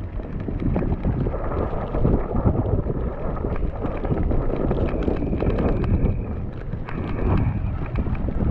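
Wind buffeting an action camera's microphone during an electric mountain bike ride through snow: a steady, heavy rumble. A faint high whine comes and goes around the middle.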